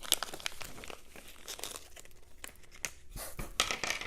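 Small plastic hardware bag being handled and crinkled, with a dense run of irregular crackles.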